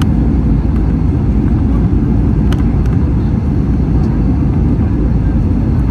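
Jet airliner cabin noise: a loud, steady low rumble of engines and airflow, with a faint click about two and a half seconds in.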